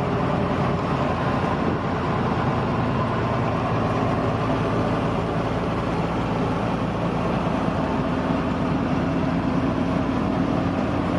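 Truck engine running steadily with road noise, an even low drone that does not change.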